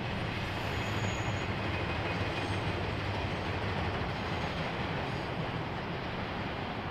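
A train rolling past on the rails: a steady noise of wheels on track that holds even throughout.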